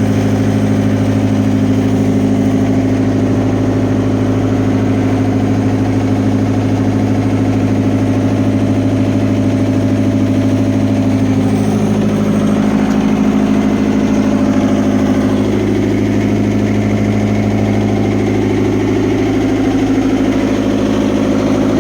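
Fiat Hitachi FH150 excavator's diesel engine running steadily.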